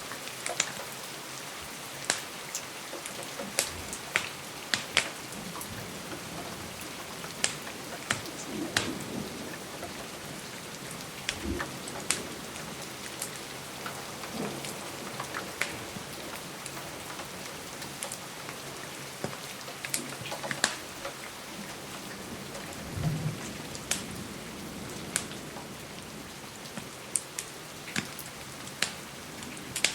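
Steady rain hiss with sharp, irregular crackles and pops from a wood fire scattered throughout, and a few brief low thuds.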